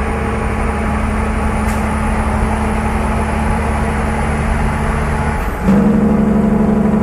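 A vehicle engine running steadily with a low hum. About five and a half seconds in, the sound jumps louder and the hum grows stronger and steadier.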